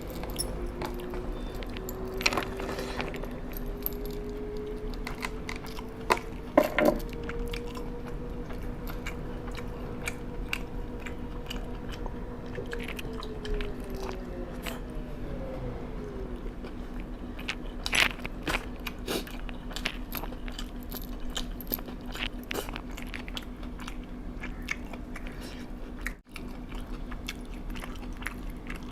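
A person chewing and biting food close to the microphone, with scattered crisp, crunchy bites, three of them louder, over a steady low hum.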